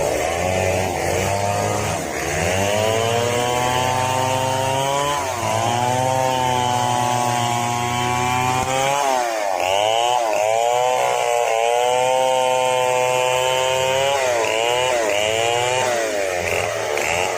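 Chainsaw running at high revs while cutting wood, its pitch dipping and recovering several times, with a quick run of dips in the second half.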